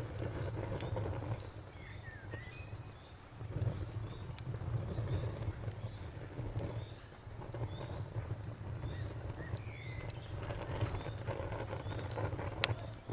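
Crickets chirping in a fast, even rhythm over a crackling campfire, with sharp pops from the fire and one louder pop near the end. A few short chirping calls come through now and then.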